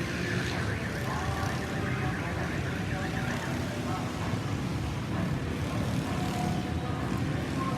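Road traffic: vehicle engines running with a steady low rumble. A wavering high tone sounds through the first three seconds or so.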